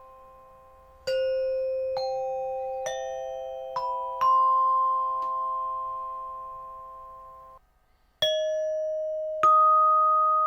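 Sonor TAG25 glockenspiel played with mallets: single notes struck roughly one a second, each ringing on and overlapping the next. About seven and a half seconds in, all the ringing stops at once, and new notes begin about half a second later.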